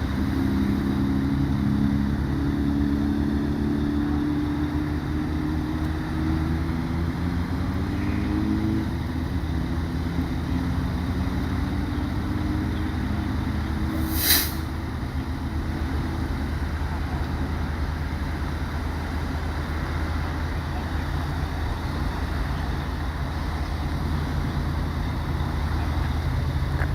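Motor vehicle engine running under a steady low rumble, its pitch slowly climbing over the first nine seconds or so. A single sharp click about fourteen seconds in.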